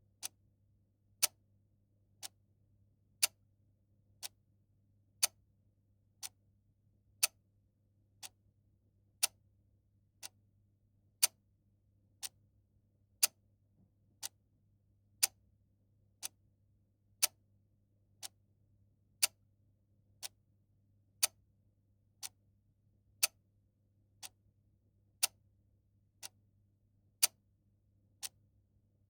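Mechanical clock ticking steadily about once a second, the ticks roughly alternating louder and softer in a tick-tock pattern, over a faint low hum.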